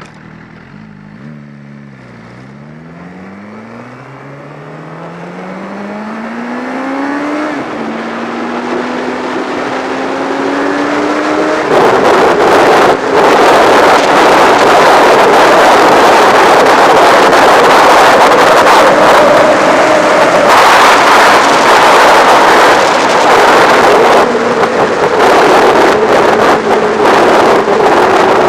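Motorcycle engine accelerating through the gears, its pitch climbing, dropping at a shift about seven and a half seconds in, then climbing again. From about twelve seconds in, loud wind rushing over the camera microphone at speed drowns it out.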